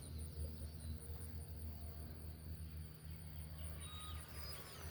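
Faint background with a steady, rapidly pulsing high-pitched insect trill over a low hum.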